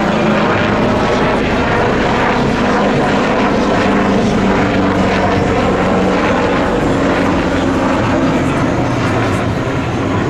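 Leonardo AW249 Fenice attack helicopter flying a display pass: steady, loud turbine and main-rotor noise.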